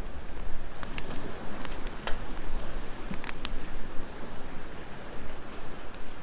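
Wood fire crackling, with sharp pops scattered through, over the steady wash of ocean waves.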